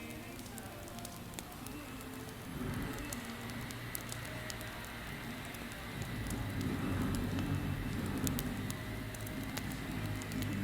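Wood fire crackling, with frequent sharp pops and snaps over a low rumble that grows louder a few seconds in.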